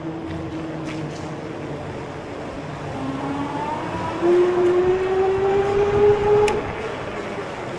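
A 72-volt e-bike's electric motor whining under way, its pitch rising slowly as it gains speed, over tyre and wind noise. It gets louder from about four seconds in until six and a half.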